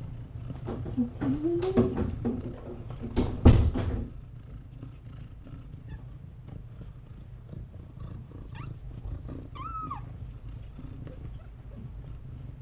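A cat purring steadily, with rustling handling noises and a thump in the first few seconds. Two short, high kitten mews come near the end.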